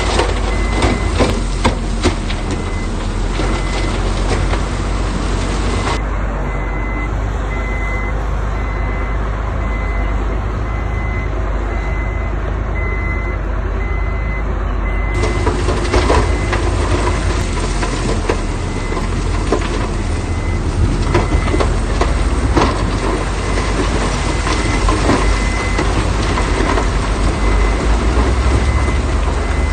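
A heavy diesel construction vehicle running under load with its reversing alarm beeping about once a second, with scattered knocks and clanks, most of them in the first few seconds.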